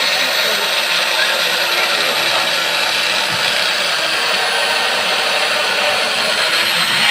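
Bench drill running steadily, a continuous whirring machine noise.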